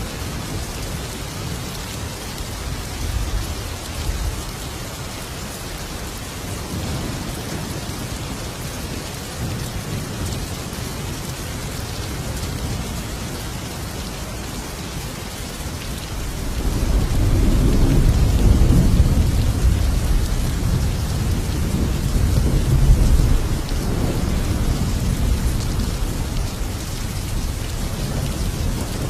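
Thunderstorm: steady heavy rain, with a long low roll of thunder swelling a little past halfway and rumbling on, gradually easing, to the end.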